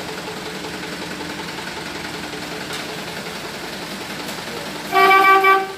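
Truck engine running steadily at idle, then one short steady horn blast about five seconds in.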